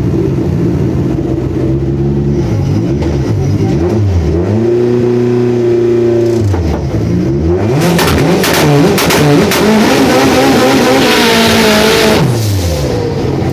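Newly built boosted car engine, set up for 1 bar of boost, revved from idle in the bay: one rev held for about two seconds near four seconds in, then a run of quick revs with a loud hiss from about eight to twelve seconds, before it drops back to a steady idle.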